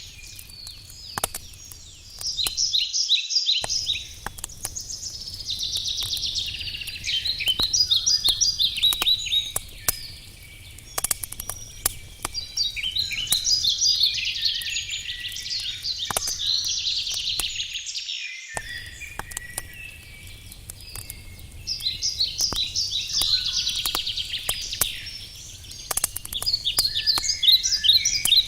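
Songbirds singing repeated trilling phrases every few seconds, over the sparse crackle and pop of a wood campfire.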